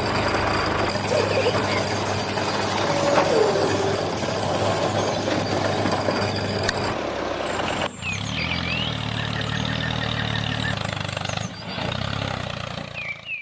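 A vehicle engine running steadily. About eight seconds in the sound cuts to a lower, steadier engine note with a few short high squeaks over it.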